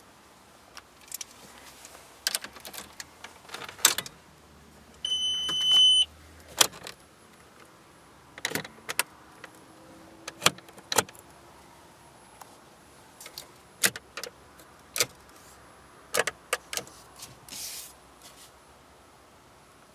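Irregular sharp clicks and taps, with a single electronic beep lasting about a second near the middle.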